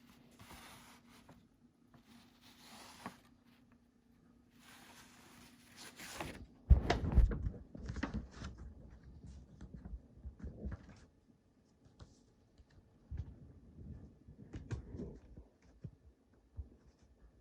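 A CD and its packaging being handled: three soft rustling swishes, then a sharp knock about seven seconds in, followed by scattered clicks and taps.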